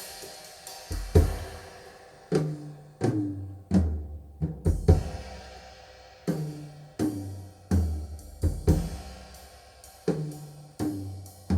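Drum-led recorded music played through B&W Nautilus 802 loudspeakers and picked up on a phone: sharp drum-kit hits with cymbals and hi-hat, each backed by a deep bass note that dies away.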